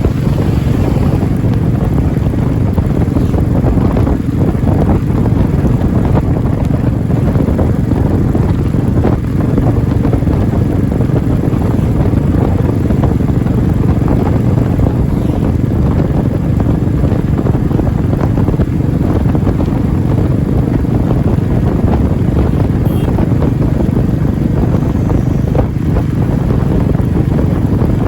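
Royal Enfield Classic 350's single-cylinder engine running steadily with a deep, even thump, with wind on the microphone.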